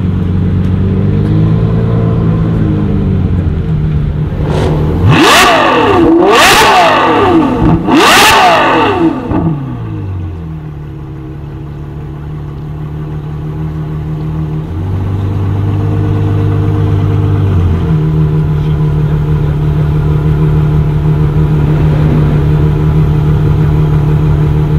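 Ferrari F12's naturally aspirated 6.3-litre V12 idling, then revved sharply three times about five to nine seconds in, each rev rising and falling quickly. It then settles back to a steady idle.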